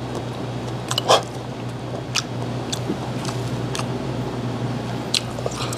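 Close-up chewing of grilled whole gizzard shad: irregular small crisp clicks and smacks from the mouth over a steady low hum.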